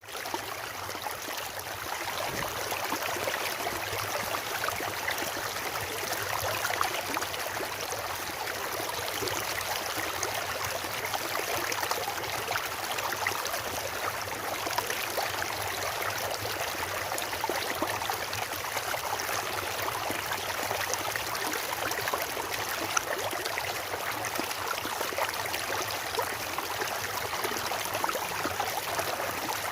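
A stream of water rushing and splashing over rocks in a steady, unbroken flow.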